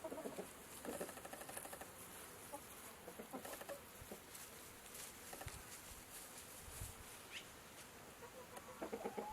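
Faint animal calls in short repeated pulses.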